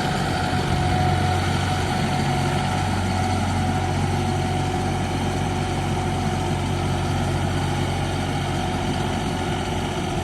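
2019 John Deere 5075E cab tractor's diesel engine running steadily at low speed as the tractor is eased into a chicken house.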